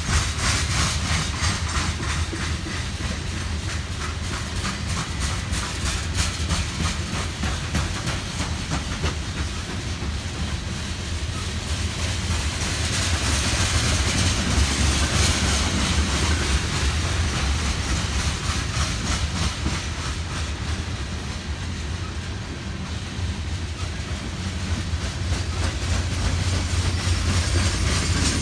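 Loaded coke train's hopper cars rolling past at close range: a steady rumble of steel wheels on rail with a fast, even run of clicks, swelling a little about halfway through.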